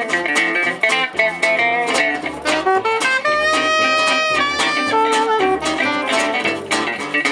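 Live gypsy jazz (jazz manouche) band playing: a rhythmically strummed guitar under a melody line, with one long held note about halfway through.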